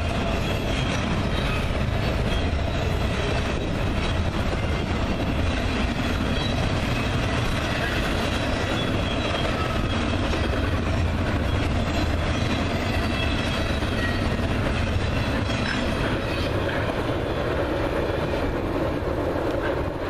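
Union Pacific double-stack container train rolling past: a steady rumble of wheels on rail, with faint high-pitched wheel squeal.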